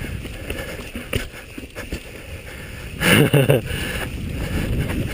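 Rattling knocks and clicks with a steady low rumble and wind on the microphone, as a rider descends a rough, rocky trail; a short vocal burst about three seconds in.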